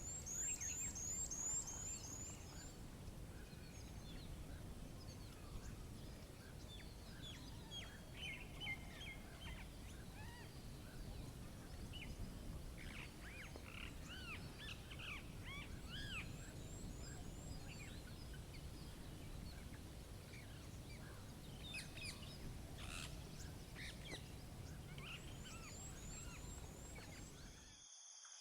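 Several small birds chirping and calling over a steady low rumble of outdoor background noise. A fast run of high, repeated notes comes near the start, and short rising-and-falling chirps cluster in the middle.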